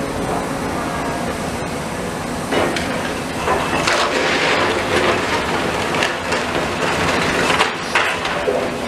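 Demolition machinery working: a steady mechanical rumble with repeated clattering knocks of debris, growing busier from a few seconds in.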